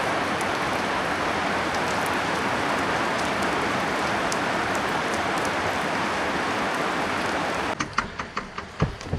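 Heavy rain pouring down, a steady hiss. Near the end it cuts off suddenly, followed by a quick run of clicks and knocks.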